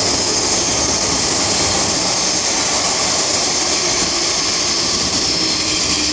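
MTR M-Train carriage heard from inside while the train runs: a loud, steady rumble and hiss of wheels on rail and traction equipment, with a faint motor tone coming in near the end.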